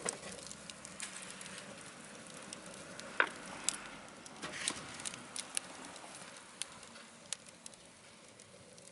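Scrap building timber burning in a wood stove: a steady hiss with scattered sharp crackles and pops, the loudest pop about three seconds in.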